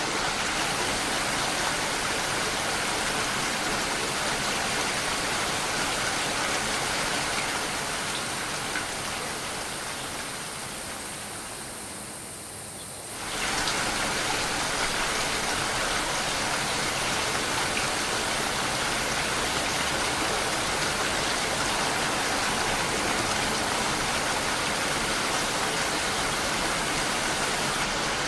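Steady rain. It fades a little about eight seconds in, then comes back suddenly at full strength about five seconds later.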